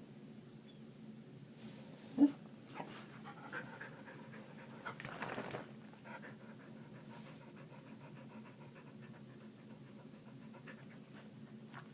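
A dog panting in rapid, even breaths, with a sharp click about two seconds in and a short louder, noisier burst around five seconds.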